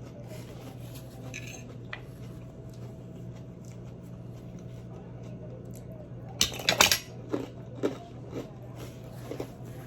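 Close-up eating sounds: chewing with small clicks, and a loud burst of utensil-on-plate clatter about six and a half seconds in, over a steady low electrical hum.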